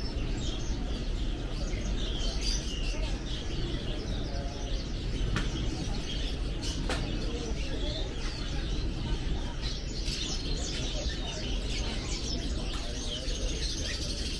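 Many caged songbirds chirping and twittering at once, over a low murmur of background crowd noise; the chirping grows busier near the end.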